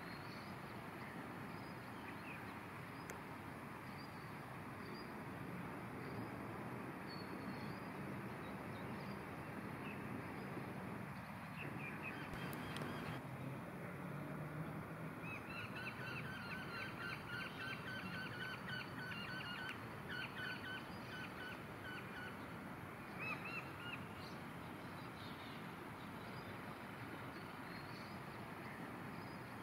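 Steady outdoor background noise with birds: scattered short chirps, and from about halfway through a bird repeating a rapid run of chirps for about six seconds.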